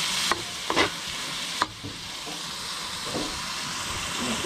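Adobo sizzling in a pan as it is stirred, with three or four knocks of the utensil against the pan in the first second and a half. The sizzle drops a little after that.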